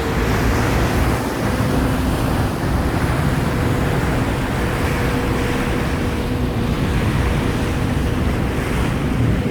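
A passenger ferry under way: its engines give a steady hum under the loud rush of water along the hull, with wind buffeting the microphone.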